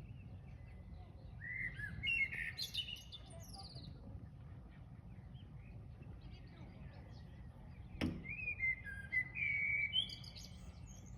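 A songbird of unknown species singing two phrases of clear whistled notes, several seconds apart, over a steady low background rumble. A single sharp knock comes just before the second phrase.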